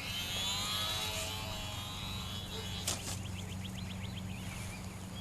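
Electric motor and propeller of a HobbyZone Carbon Cub S2 RC airplane whining in flight, its pitch sliding over the first couple of seconds, over a steady low hum. There is a short click about three seconds in.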